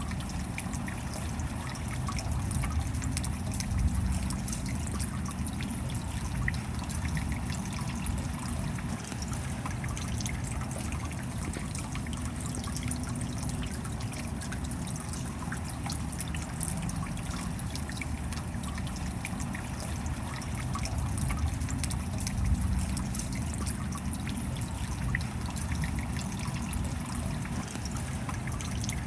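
Steady rain with water trickling and many small drops ticking. The sound swells slightly a few times.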